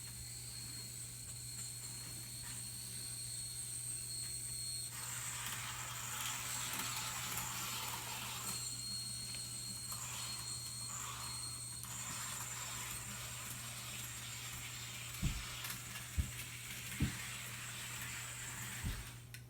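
Small HO-scale model train locomotive running along its track: a high motor whine with a rattle of wheels on the rails, louder for several seconds in the middle. A few dull thumps come near the end.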